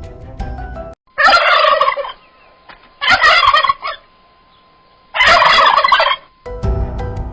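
An animal call heard three times, each a rapid warbling call about a second long with short quiet gaps between, set between stretches of background music.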